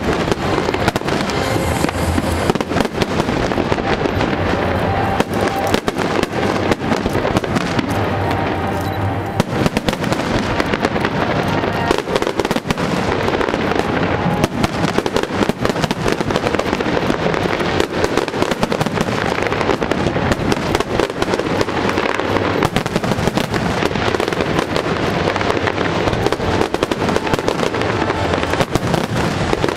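Fireworks barrage: a dense, unbroken run of bangs and crackles, many a second, with music playing underneath.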